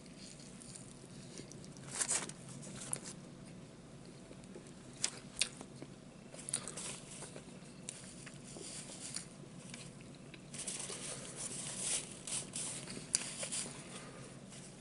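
Quiet chewing of a sandwich with scattered crackling mouth sounds, and a paper napkin crinkling in the second half.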